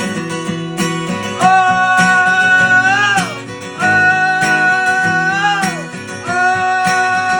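Music: a country-style song with strummed acoustic guitar and a voice singing long held "oh" notes, three in turn, each ending in a falling slide.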